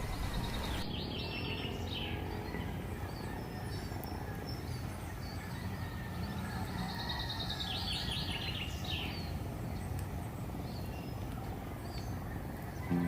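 Birds chirping in quick runs of short high notes, once near the start and again about seven seconds in, over steady low outdoor background noise.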